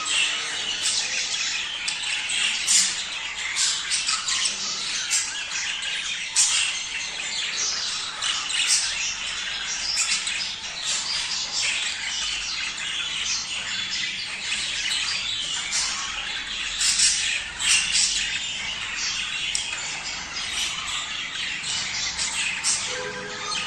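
A flock of budgerigars chattering continuously in a dense warble, with many short, sharp squawks and chirps over it: the breeding-season calling of budgies.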